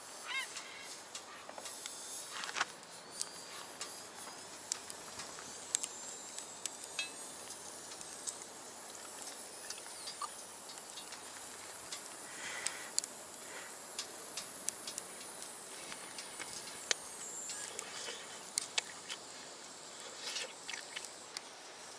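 Wood fire crackling in a small folding box stove: irregular sharp pops and ticks over a steady hiss.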